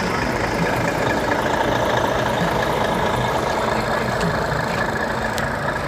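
A large truck's diesel engine idling steadily.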